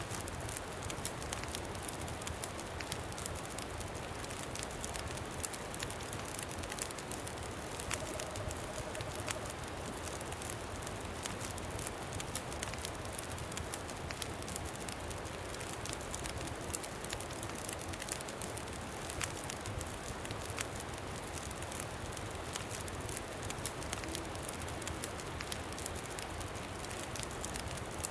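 Campfire crackling, with many small sharp pops scattered over a steady rush of wind.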